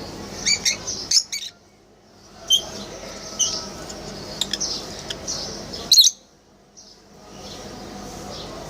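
Lutino lovebirds making many short, sharp, high calls, with scattered sharp clicks. The sound cuts out abruptly twice for about a second, and the loudest call comes just before the second break.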